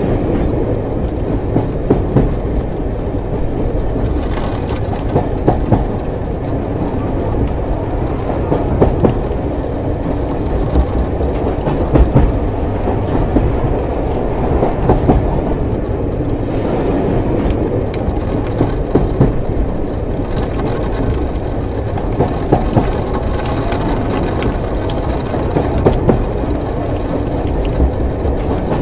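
Train running along the rails: a steady low rumble with sharper knocks and clacks every second or two, at irregular spacing.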